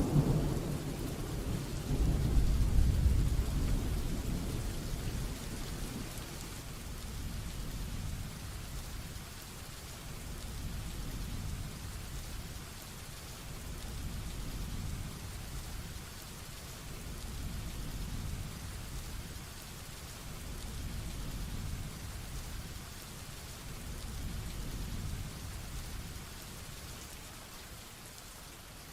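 Heavy rain falling steadily with thunder: a loud rolling rumble in the first few seconds that dies away, then softer low rumbles swelling and fading every few seconds under the rain.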